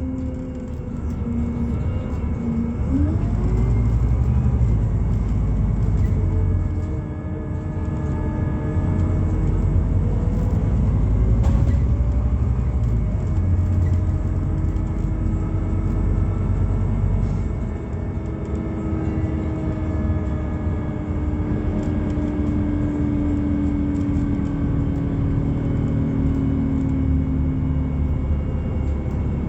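Scania Citywide LFA natural-gas city bus heard from inside the cabin: its Scania OC09 five-cylinder gas engine and ZF gearbox are running under a steady low rumble. A whine rises in pitch a couple of seconds in, and a long whine falls slowly over the second half.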